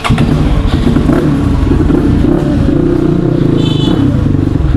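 CX250R motorcycle engine running at low revs with an uneven throb as the bike sets off. A brief high chirp sounds about three and a half seconds in.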